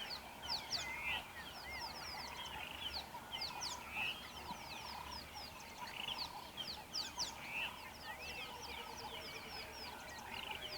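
A chorus of wild birds calling: many short, high notes sweeping downward in quick succession, with lower curling and warbling calls beneath.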